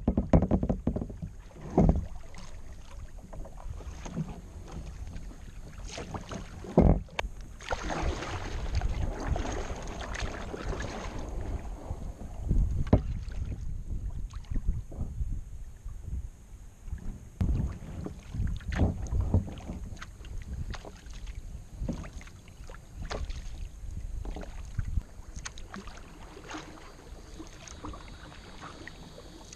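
Kayak being paddled: the paddle dips and swishes through the water, with a few sharp knocks and wind buffeting the microphone.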